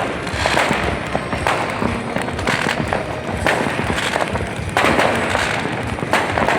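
Fireworks going off: an irregular, continual run of bangs and crackles over the noise of a crowd.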